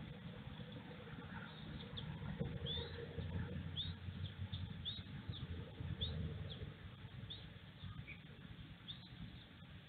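Short, high bird chirps, about a dozen, repeating irregularly once or twice a second from about two seconds in, over a steady low rumble.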